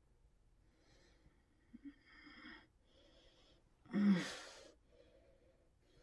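Muffled crying of a man gagged with duct tape: soft shaky breaths, then about four seconds in one loud, short sob with a brief falling whimper.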